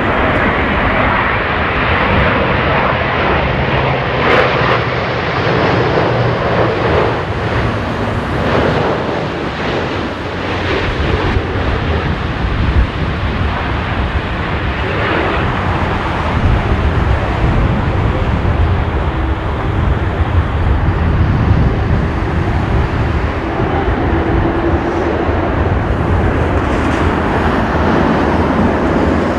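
Jet engines of an Airbus A350 airliner running continuously, mixed with heavy wind buffeting the microphone in gusts.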